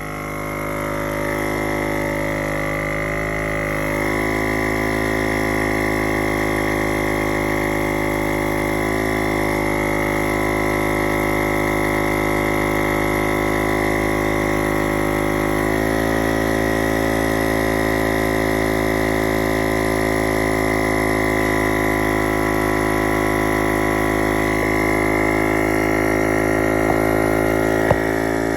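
Smoke leak-detection machine and the air blower feeding it, running steadily as smoke is pushed into the engine's intake to find a vacuum leak: a loud mechanical hum with a high whine, rising over the first couple of seconds and shifting slightly in pitch about 4 and 16 seconds in.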